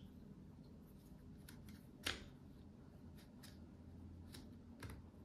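Near silence broken by a few faint, short clicks from a Glock 19X pistol and its rail-mounted light and laser being handled, the clearest about two seconds in.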